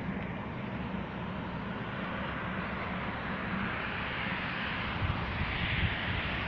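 Steady distant vehicle noise, growing a little louder near the end.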